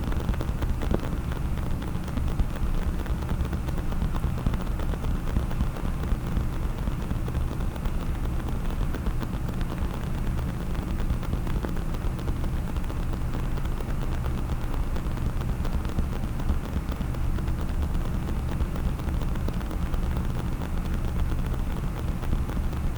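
Fast, continuous tapping on a case, with many small taps running together at an even level.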